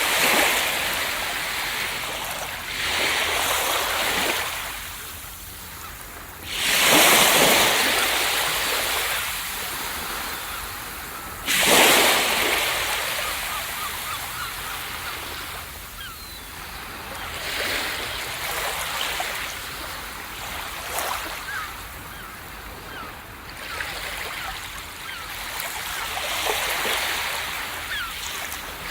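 Ocean waves breaking on a beach: a steady hiss of surf that swells and ebbs, with two big crashes about 7 and 12 seconds in, and smaller waves washing in between.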